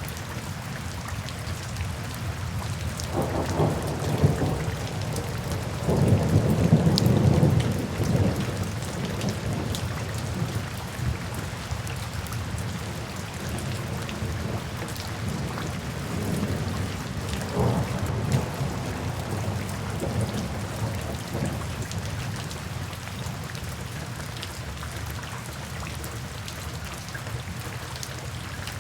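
Steady rain with rolling thunder: low rumbles about three and six seconds in, the second the loudest, and a weaker one later, over scattered crackles from a fireplace.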